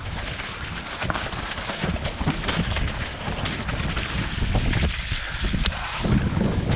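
Wind buffeting the microphone with a heavy low rumble and many irregular knocks and rattles.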